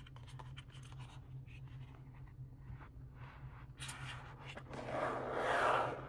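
Light tapping and small clicks on plastic packaging, then about five seconds in a louder, dense crinkling rustle as the plastic is handled.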